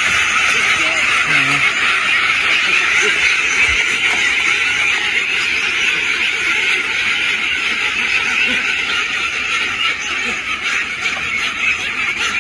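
A large flock of domestic ducks quacking all together: a loud, unbroken din of many overlapping calls.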